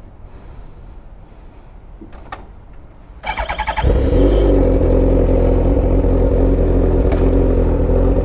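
2003 Yamaha R1 inline-four being started: the starter cranks briefly about three seconds in, the engine catches almost at once, and it settles into a loud, steady idle through its short aftermarket exhaust.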